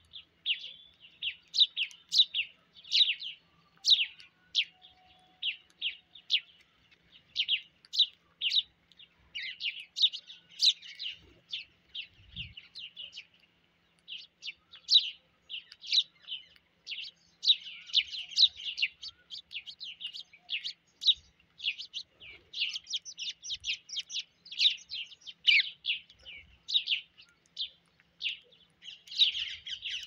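Birds chirping in a rapid, near-continuous stream of short, high chirps that overlap with few pauses, busiest in the second half.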